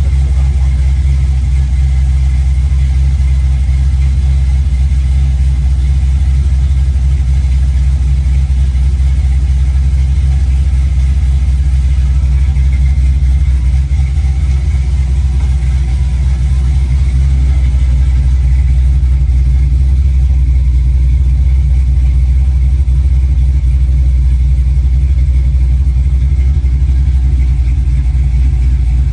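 Aluminum 6.0-litre LS V8 in a 1965 Chevy Nova idling steadily, warming up just after its first start.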